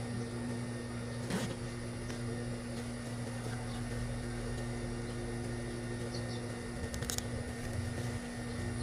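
Steady low electric hum, as from the idling motor of a high-speed sewing machine, with a couple of faint clicks from handling.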